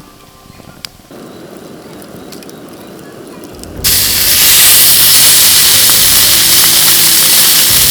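Steak sizzling loudly in a hot pan, a steady hiss that starts suddenly about four seconds in, after a softer hiss that begins about a second in.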